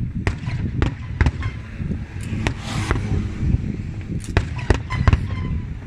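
Aerial fireworks shells bursting overhead: about ten sharp bangs at uneven intervals over a continuous low rumble of echoing reports, with a brief hissing burst about halfway through.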